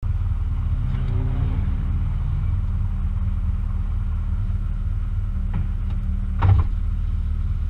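Ford Fiesta ST150 rally car's engine idling steadily, heard from inside the cabin. A faint click comes a little past five seconds in, and a louder short knock about six and a half seconds in.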